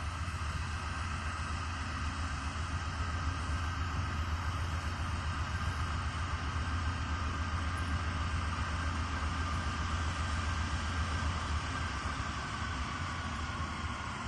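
Diesel locomotive running steadily: a deep engine rumble with a faint high whine that sags slightly in pitch near the end.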